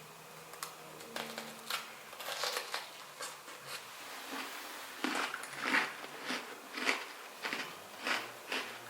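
A run of short, sharp noises from something being handled close up: a few scattered ones at first, then about six stronger ones at a steady pace in the second half.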